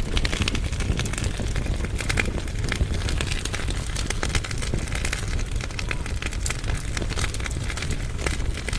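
Firewood burning in a fireplace firebox, crackling with many small, irregular sharp pops over a steady low rumble.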